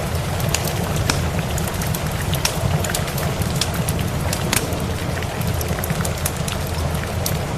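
Steady rain mixed with a crackling wood fire: a continuous rain hiss over a steady low rumble, with irregular sharp pops and snaps from the fire throughout.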